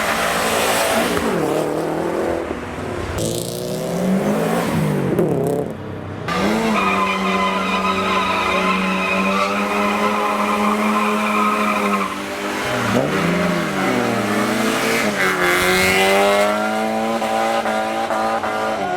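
Car engine revving hard, rising and falling several times and held at steady high revs for about five seconds in the middle, with tyres squealing as the wheels spin: a car doing tyre-spinning stunts.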